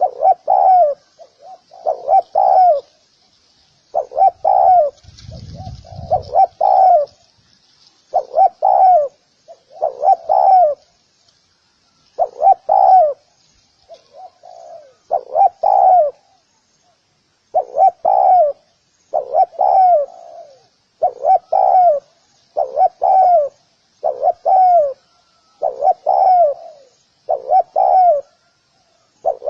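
Spotted dove cooing: a steady run of short, low, repeated coos, thinning to a few faint calls near the middle before picking up again. A brief low rumble comes about five seconds in.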